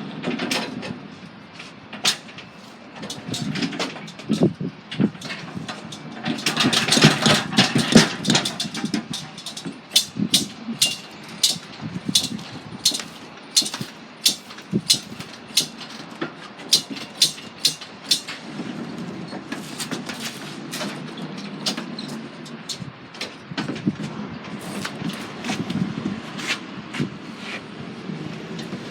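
Lorry running, with many sharp knocks and rattles over its steady rumble, busiest and loudest in the first half.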